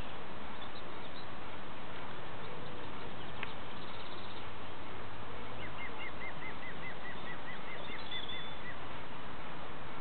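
Steady hiss with a bird calling a quick run of about a dozen short, repeated high notes, about four a second, for some three seconds from a little past the middle.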